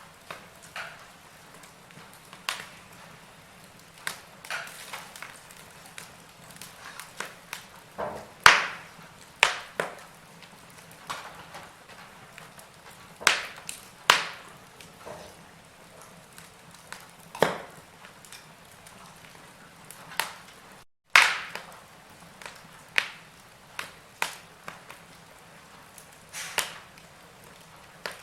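Log fire crackling: irregular sharp pops and snaps over a faint steady hiss, the loudest pops about eight, fourteen and twenty-one seconds in. A split-second gap of silence comes just before the pop at twenty-one seconds.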